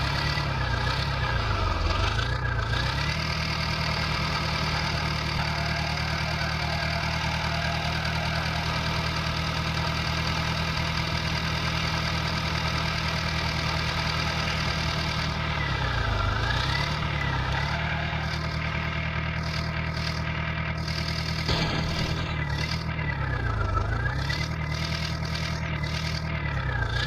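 Tractor engine sound effect, a steady electronic engine drone. Its pitch dips briefly and recovers a few times, as if throttling down and back up.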